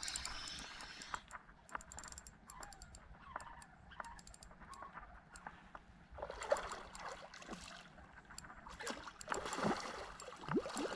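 Rapid clicking of a fishing reel as line is wound in, with water splashing in two spells, about six seconds in and again near the end.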